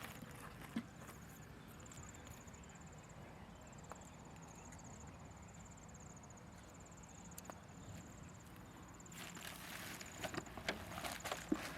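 Faint insect trilling in short, high-pitched phrases of rapid pulses that repeat about once a second, with a few clicks and knocks near the end.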